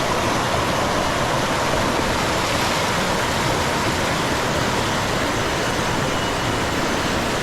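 Small waterfall pouring over rock close by, a loud, steady rush of falling water.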